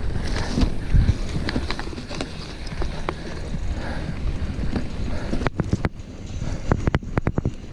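Mountain bike rolling over a dirt trail: a steady rumble of tyres and wind on the microphone, with a burst of sharp clicks and rattles from the bike about two-thirds of the way through.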